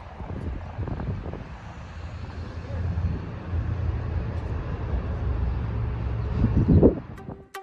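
Low, steady rumble of a moving vehicle with wind buffeting the microphone, swelling briefly and then cutting off abruptly near the end.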